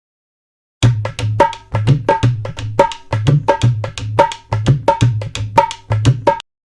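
A short clip of rhythmic hand-drum music: quick strokes at about four a second, each pairing a deep drum tone with a ringing higher tone. It starts about a second in and cuts off abruptly near the end.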